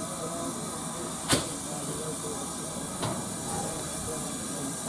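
Steady hiss of steam from a steam locomotive, with one sharp knock about a second in and a fainter one about three seconds in.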